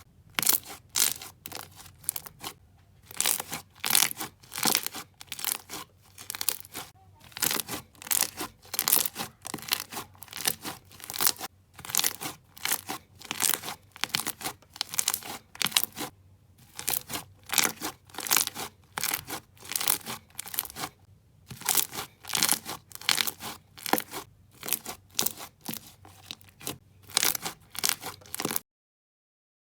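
Slime being pressed and squeezed by hand, making a crackling sound in quick repeated presses, about two a second, with a few short pauses. It stops abruptly near the end.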